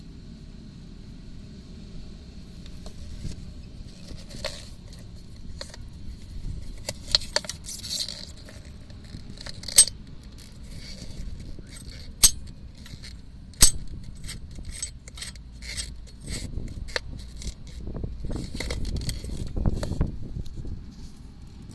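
Irregular sharp metallic knocks and clinks from a Volkswagen Passat B4's front suspension strut, the three loudest single cracks falling around the middle, over a low rumble: the knock of a faulty front strut.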